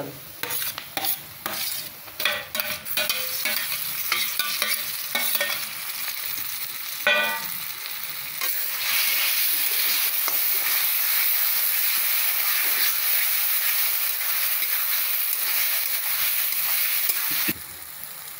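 Mashed roasted eggplant frying in hot mustard oil in a metal kadhai, stirred with a metal spatula. For the first several seconds the spatula scrapes and clatters against the pan in quick strokes, then a steady sizzle follows, cutting off suddenly near the end.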